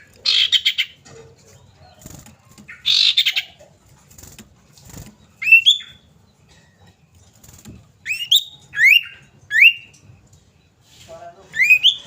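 Common iora calling: two quick rasping chatters in the first few seconds, then about five short whistled notes, each sweeping sharply upward, spaced through the rest.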